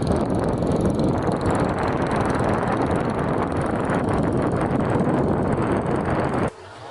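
A loud, steady rumble of a running vehicle engine that cuts off suddenly near the end.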